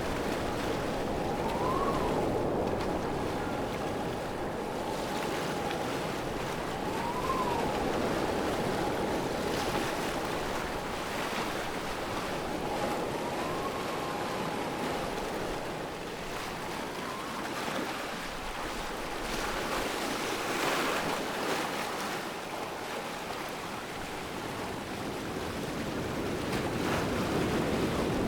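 Waterfall rushing steadily, with a faint thin steady tone underneath that rises and falls back briefly about four times.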